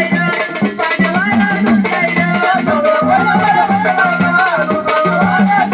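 Marathi devotional folk music of a jagaran gondhal. A wavering melody line plays over continuous rattling percussion.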